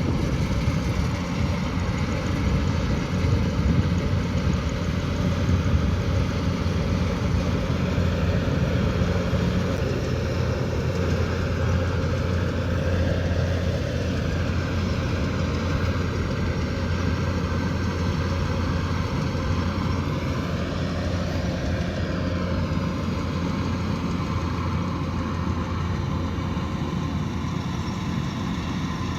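Kubota DC108X combine harvester running steadily with a low, even engine hum and the drone of its machinery, harvesting rice.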